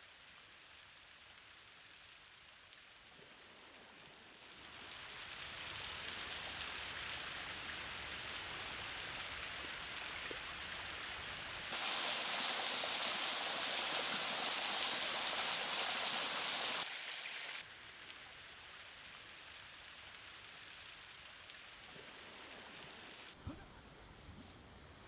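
Steady rush of a waterfall. It grows louder a few seconds in, jumps much louder and hissier about halfway, and drops back abruptly several seconds later. A couple of faint knocks come near the end.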